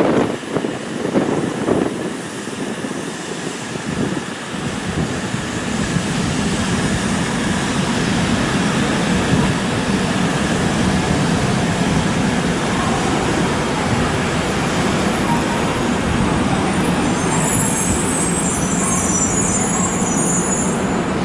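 A Shinkansen high-speed train running by: a steady rushing noise that builds over the first several seconds and then holds, with a brief high hiss near the end.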